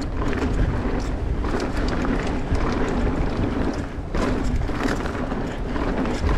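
A mountain bike riding a dirt trail: wind buffets the camera microphone over the hiss of the tyres, with frequent knocks and rattles from the bike.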